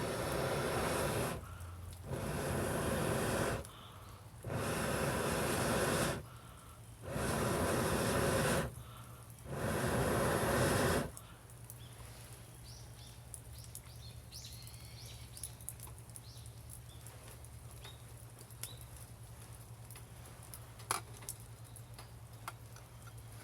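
Backyard wood fire: five long bursts of rushing air, each about a second and a half with short gaps, then the fire crackling with scattered small pops.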